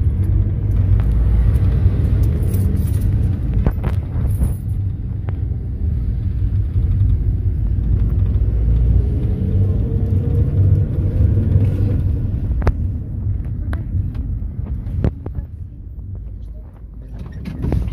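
Mercedes-Benz Sprinter minibus driving, heard from inside the cabin: a steady low rumble of engine and road, with a few sharp rattles and knocks. The rumble eases off near the end.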